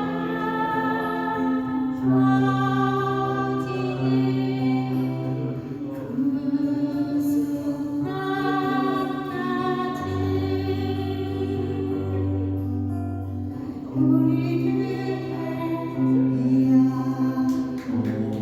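A woman singing a slow Korean folk ballad in long, held notes, with instrumental accompaniment underneath.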